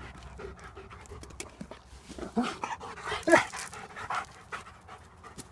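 Small Havanese dogs panting, with a brief louder sound a little over three seconds in.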